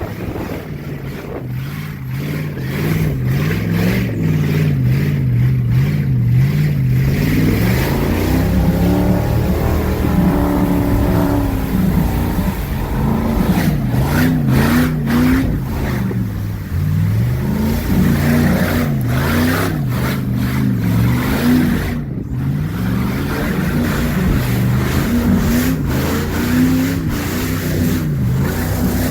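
Mud truck's engine revving hard, its pitch climbing and dropping again and again as the driver works the throttle.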